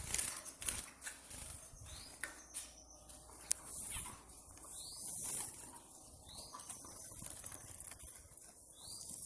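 Zebra finches calling: a short rising chirp every two to three seconds, over a steady high hiss, with light rustling and taps.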